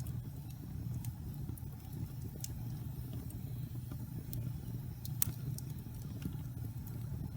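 Wood fire burning in a fireplace: a steady low rumble of the flames with irregular sharp crackles and pops of burning wood, one loud pop about five seconds in.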